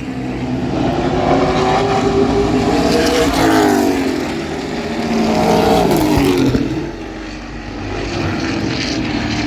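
Race trucks' engines running hard on the track, swelling loud as the trucks pass, about a second in and again around five seconds, with the engine pitch sliding down as each pass goes by.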